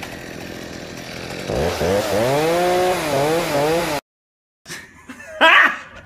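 Gasoline chainsaw running, then revving up about one and a half seconds in, its pitch rising and wavering for a couple of seconds before it cuts off abruptly. A short silence follows, and then a voice near the end.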